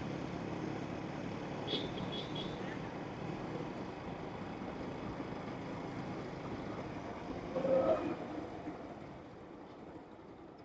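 Motor vehicle engine running with road noise, a steady hum that slowly fades over the last few seconds, with a few short high chirps about two seconds in and a brief louder sound near eight seconds.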